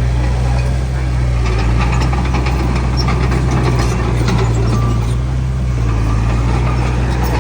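Heavy diesel engine of earthmoving machinery running steadily, with scattered metallic clinks and rattles over it.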